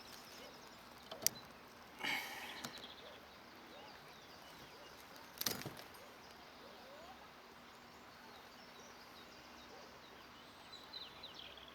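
Quiet outdoor ambience with faint bird chirps, a sharp click about a second in and two short noisy bursts around two and five seconds in.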